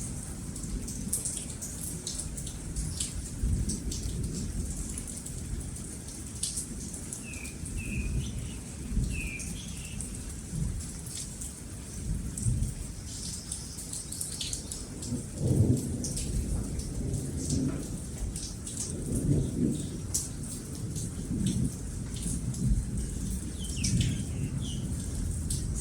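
Steady rain with thunder rumbling on and off, the heaviest roll about two-thirds of the way in. A few short bird chirps come through the rain about a third of the way in and again near the end.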